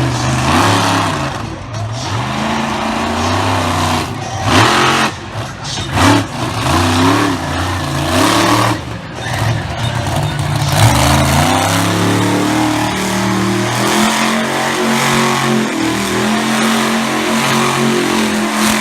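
Monster truck engine revving hard: the pitch rises and falls again and again, then holds at a steadier high pitch from about 11 seconds in.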